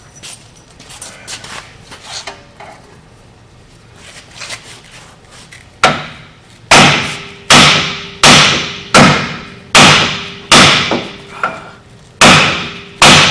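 A heavy hammer pounds the rusted-in wheel hub assembly of a Dodge Ram 1500, about one hard metal-on-metal blow every three quarters of a second, each blow ringing. It follows a few seconds of light clinking, and the blows begin about six seconds in. The hub is being knocked loose from its knuckle.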